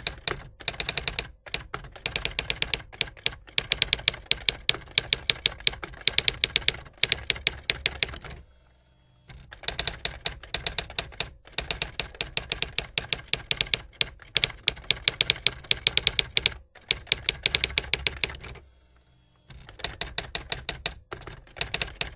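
Typewriter keys clacking in fast, continuous runs of keystrokes, broken by a few short pauses.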